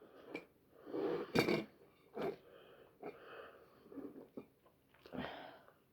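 A man breathing hard in several rasping, wheezy breaths, from the burn of an extremely hot chilli. A short sharp click comes about a second and a half in.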